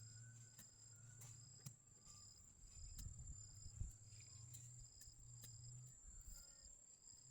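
Faint insects chirping: a steady high buzz with short cricket chirps repeating about twice a second. Under it are a low hum that comes and goes and a few light clicks.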